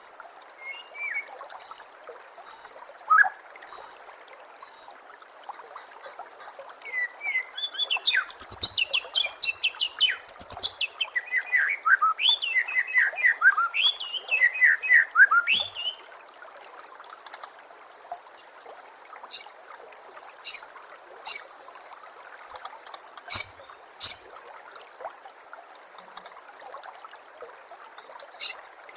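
White-rumped shama singing: about five evenly spaced high whistled notes, then a fast varied run of gliding notes from about seven to sixteen seconds, then widely spaced sharp clicking notes. A steady trickle of water runs underneath.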